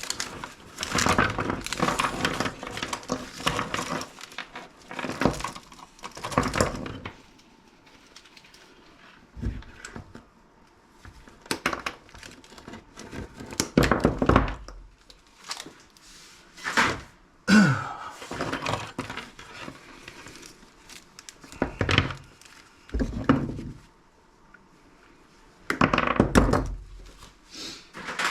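Scrap electronic parts being handled and taken apart on a workbench: irregular thunks, knocks and clatter, some sharp and loud, with quieter gaps between them.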